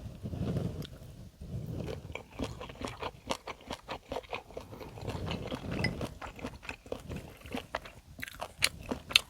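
A person chewing food close to the microphone: steady mouthfuls of wet, crisp crunching with many sharp clicks, the loudest near the end.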